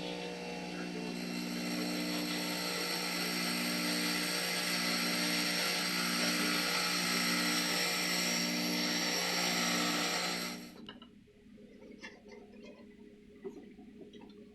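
High-speed grinding tool running steadily with a whine as it grinds down a brass saxophone key arm, stopping suddenly about eleven seconds in; faint scraping and ticking follow.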